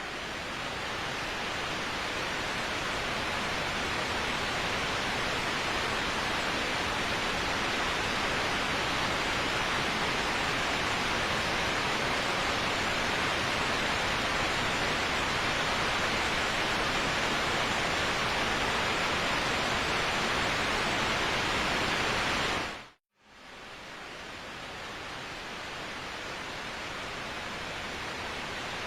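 Waterfall: a steady rush of falling water. About 23 seconds in it fades briefly to silence, then comes back a little quieter.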